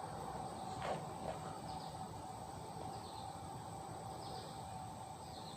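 Faint, short high chirps from small birds, about five over a few seconds, against a steady background hum.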